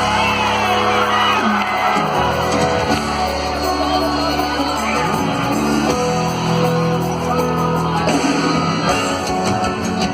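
Live forró band music played loud over the PA, with long held chords; shouts rise over it.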